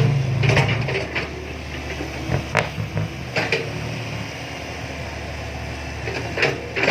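Heavy vehicle engine running steadily with a low hum, a little louder in the first second, with a few sharp clanks and knocks over it, about five in all.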